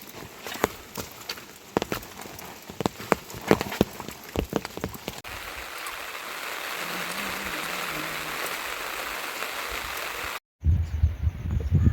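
Rain falling. For about five seconds, single drops strike a hard surface in sharp separate clicks over a light hiss. Then, after a cut, a steady, even hiss of rain runs until a brief dropout near the end, where low thuds of another sound begin.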